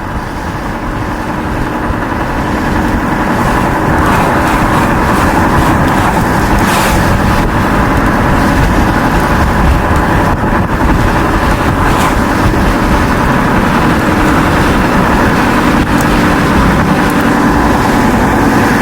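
Motor vehicle driving: steady engine and road noise that builds slightly over the first few seconds, then holds.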